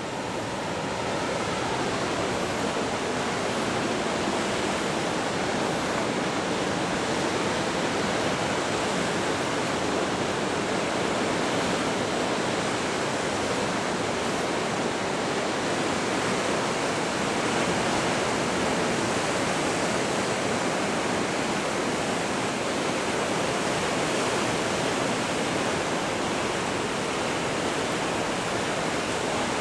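Pacific surf breaking against the base of a rocky coastal bluff, a steady, unbroken roar of waves.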